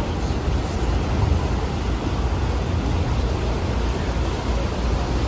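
Sightseeing boat under way: a steady, loud, deep rumble mixed with a rushing noise of engine and water.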